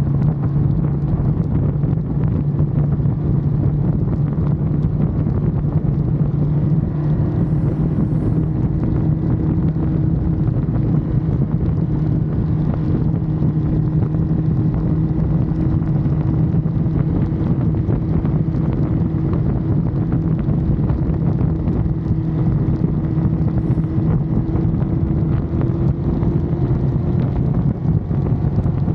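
Ducati Monster's V-twin engine running at a steady cruise, its pitch creeping slowly up, with wind rushing over the camera microphone.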